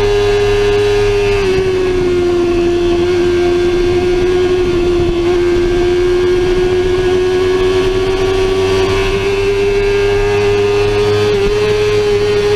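Sportbike engine running at high revs under steady throttle. The note dips slightly about a second and a half in, then climbs slowly as the bike gathers speed.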